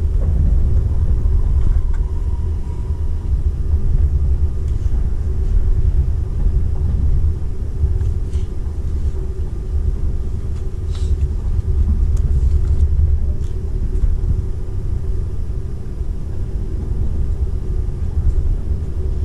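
Running noise inside the cabin of a Seibu 001 series Laview limited express under way: a steady low rumble from the wheels on the rails, with a steady hum and a few faint ticks.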